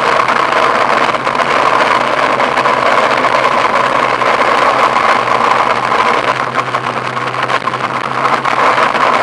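A vehicle's engine running steadily, a constant hum over an even rushing noise.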